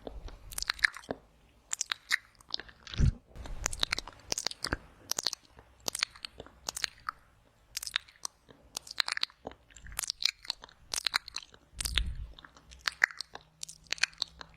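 Close-miked wet mouth sounds for ASMR ear eating: rapid, irregular lip smacks and tongue clicks, a few each second, with a couple of low thuds.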